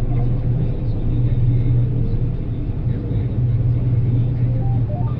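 John Deere 9770 combine running steadily: a constant low engine drone without breaks or changes in speed.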